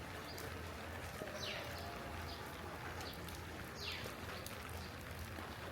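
Steady rain with a bird calling twice, each call a short high note falling steeply in pitch.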